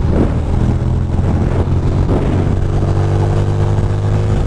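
Ducati Monster 620's air-cooled V-twin engine running steadily under way at cruising speed, its pitch holding fairly even, over a rush of wind and road noise.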